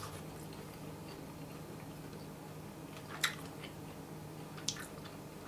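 A person chewing a bite of breadcrumb-coated fried meat cutlet, with two short sharp crunchy clicks about three and about four and a half seconds in, over a steady low hum.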